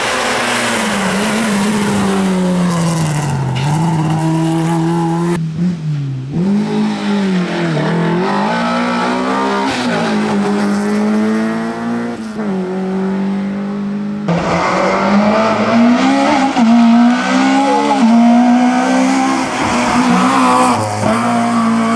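Race car engines revving hard up and down through the gears, the pitch repeatedly rising and dropping. The sound changes abruptly twice, about five seconds in and about fourteen seconds in, as it switches from one car to the next.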